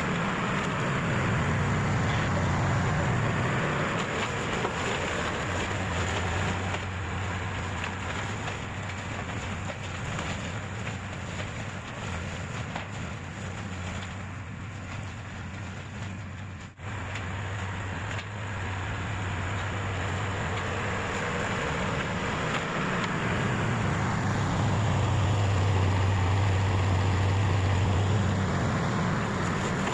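Heavy farm machine's engine running under load while clearing brush, its low hum swelling and easing as the load changes. It drops out briefly about seventeen seconds in.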